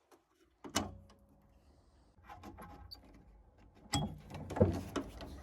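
Small clicks, taps and rustling from metal boiler parts being handled while spark electrodes are swapped. A louder knock comes about four and a half seconds in.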